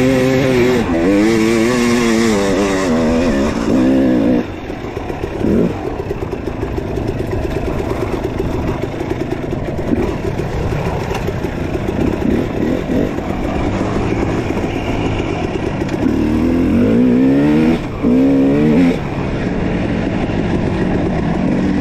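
Dirt bike engine revving up and down, its pitch rising and falling repeatedly. It settles to a lower, steadier run in the middle and revs up and down again near the end.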